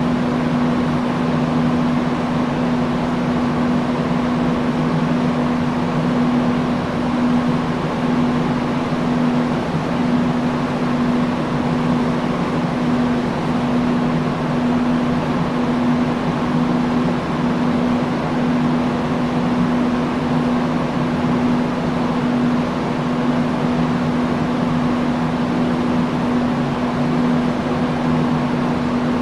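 Industrial fan running steadily: an even rush of moving air with a constant low motor hum underneath.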